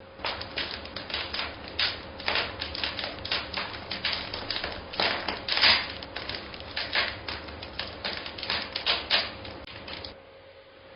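A quick, irregular run of sharp clicks and taps, several a second, with a faint steady hum underneath; the clicking stops about ten seconds in.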